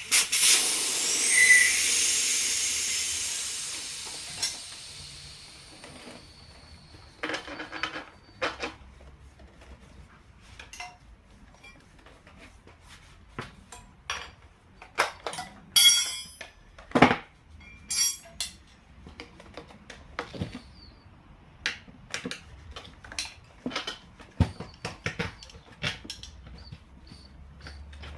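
Air hissing out of a motorcycle tyre, starting loud and fading away over about five seconds as it deflates, then scattered metallic clinks and clanks of hand tools being handled.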